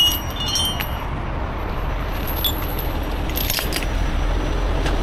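Heavy truck engine running with a steady low rumble. Light metallic clinks and jingles come in the first second and again about halfway through.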